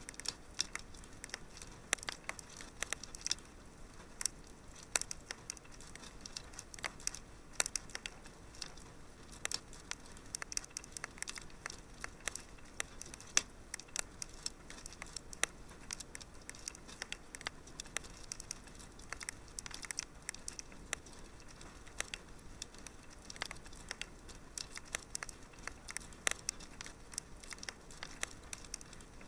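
Wood fire crackling in a fireplace: many irregular sharp pops and snaps, several a second, over a faint hiss.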